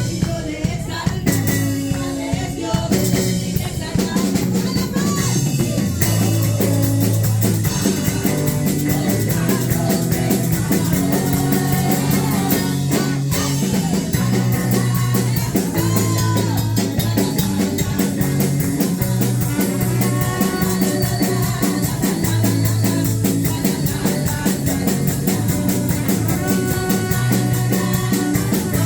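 Live praise band music with drum kit, bass and guitar playing a steady beat, with fast even cymbal strokes, getting fuller about six seconds in.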